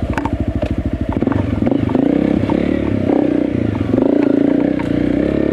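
Enduro motorcycle engine running under load, its pitch rising and falling as the throttle is opened and eased. Scattered clattering knocks come from the bike over rough trail.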